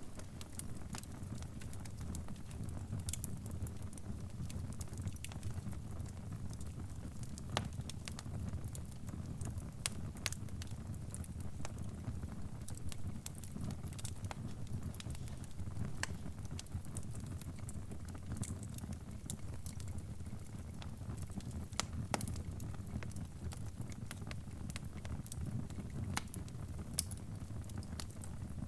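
Crackling fire: a steady low rumble of burning with irregular sharp pops and snaps scattered throughout.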